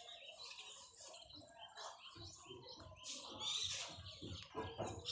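Faint, scattered bird chirps and soft twittering, with a slightly louder chirp about three and a half seconds in.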